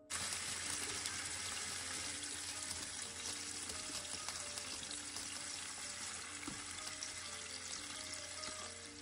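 Raw chicken strips sizzling in hot oil in a frying pan. The sizzle starts suddenly and then runs steadily.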